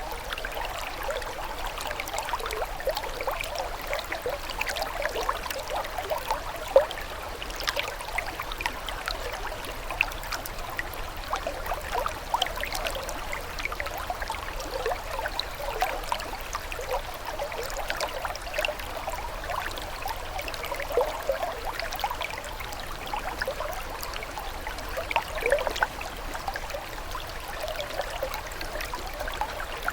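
Running water trickling and babbling steadily, a continuous wash full of small splashes and drips, with one louder splash about seven seconds in.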